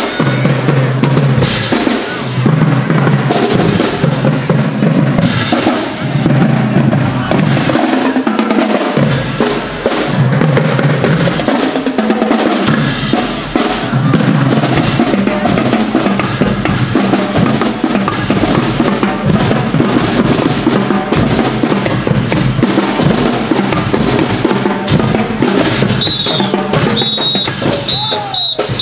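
Marching band drumline playing a loud, continuous cadence on snare and bass drums, with a run of short high-pitched tones near the end.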